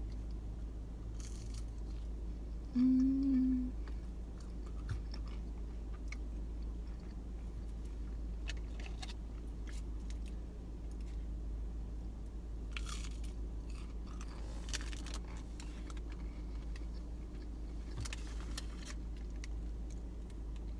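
Close-up chewing and biting of breaded chicken nuggets dipped in honey mustard sauce, with scattered crunchy bites. A brief pitched hum about three seconds in is the loudest sound.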